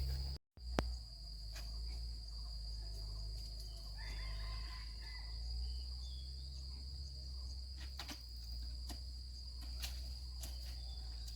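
Insects droning steadily at one high pitch over a low rumble, with a few faint clicks.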